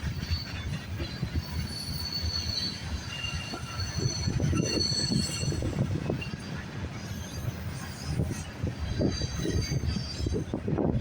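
A long freight train's cars rolling past at speed: a steady rumble of steel wheels on rail with irregular knocks and clacks, and a thin, high wheel squeal that comes and goes.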